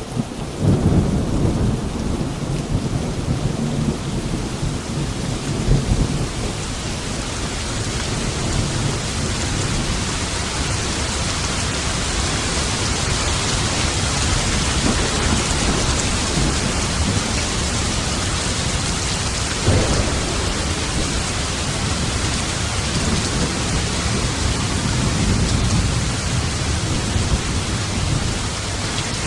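Thunderstorm: steady heavy rain hissing, with low rolling thunder rumbling through the first few seconds and again about twenty seconds in.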